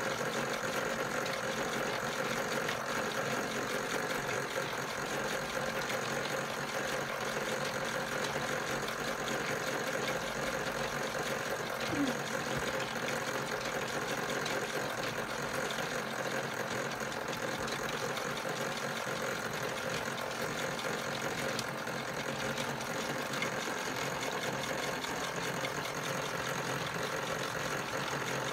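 Europlay Tide Juniors Home toy washing machine running its wash action: a small electric motor whirring steadily, with a brief squeak about twelve seconds in.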